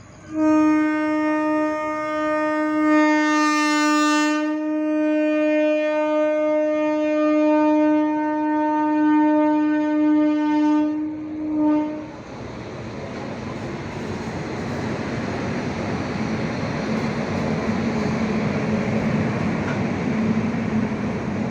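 Train horn sounding one long, steady blast for about eleven seconds, cutting off near the middle. Then the steady, growing rush and rumble of a train running past.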